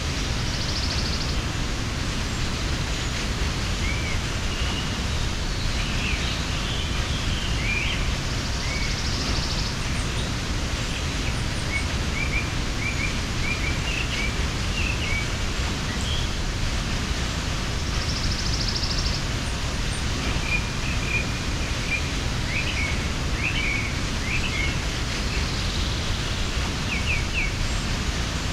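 Mountain waterfall rushing steadily, with birds chirping now and then over the water, and a short high trill coming back every eight to ten seconds.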